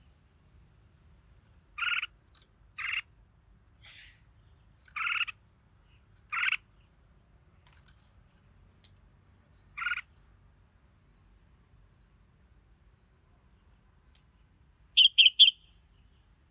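Red-whiskered bulbul calling: short separate notes about a second apart, then a run of faint falling whistles, and a quick burst of three notes near the end.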